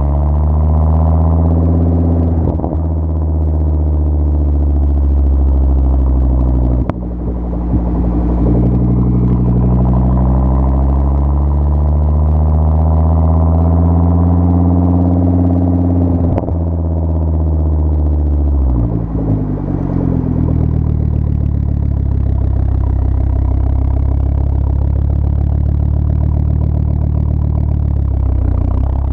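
2004 Volvo S60R's turbocharged 2.5-litre inline-five running through a custom 3-inch exhaust with resonators. The engine note climbs and falls over several seconds at a time, with brief breaks about seven and sixteen seconds in.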